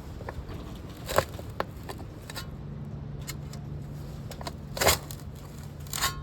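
A handful of short, sharp crunches and scrapes from hand-tool work in soil and turf, the loudest about five seconds in. A steady low hum comes in about two and a half seconds in.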